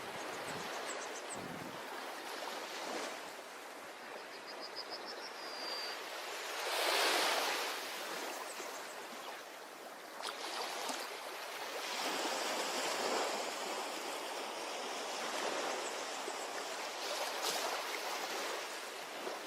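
Ocean waves washing onto a shore: a steady hiss of surf, with one wave surging louder about seven seconds in.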